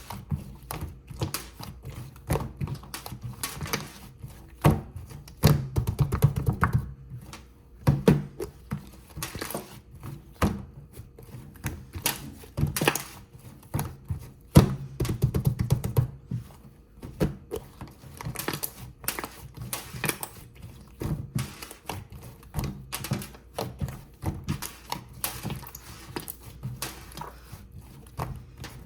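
Kitchen utensils tapping, knocking and scraping irregularly while a whipped-cream cake is made, with a few louder thunks and two longer stretches of dense scraping.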